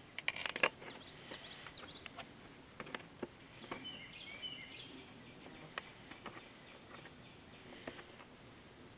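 Scattered light clicks and taps from handling small parts, busiest in the first second. Birds chirp faintly in the background, with a short warbling call about four seconds in.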